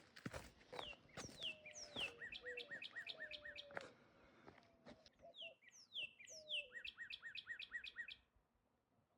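Songbird singing faintly in two phrases, each a run of quick falling notes that speeds into a fast series of repeated chips, with a short pause between the phrases. A lower whistled note wavers underneath, and a few clicks sound near the start.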